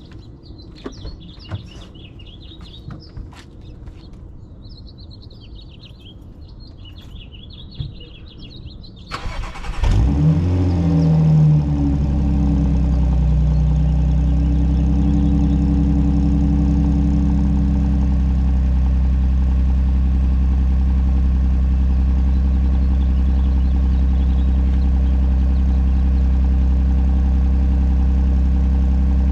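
Cold start of a 2017 Audi Q7's supercharged V6 through a muffler-delete exhaust: a brief crank about nine seconds in, the engine catching with a loud rev flare, then settling into a steady, loud fast cold idle. Birds chirp faintly before the start.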